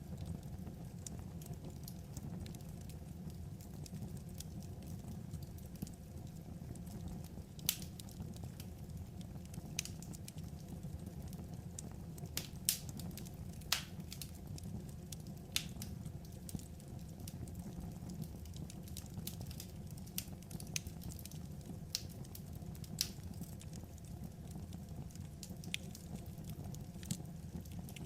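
Wood fire crackling: a steady low rumble with irregular sharp pops and snaps, the loudest pops near the middle.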